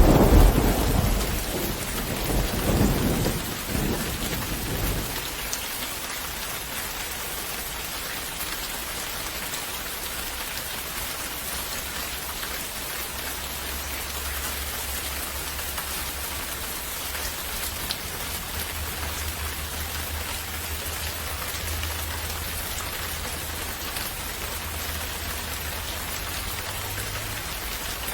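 Thunder rumbling and fading away over the first few seconds, followed by steady rain falling.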